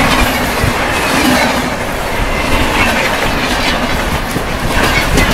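Loud running noise of Indian passenger trains at speed: wheels clattering and rumbling on the rails, heard from the open doorway of a moving coach while a second train passes on the adjacent track.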